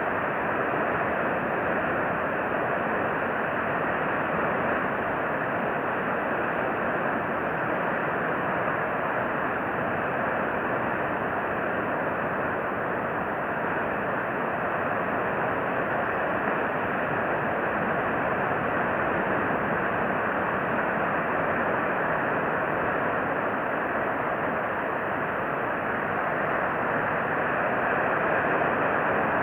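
Steady, even rushing noise of the outdoors, with no distinct calls or other events.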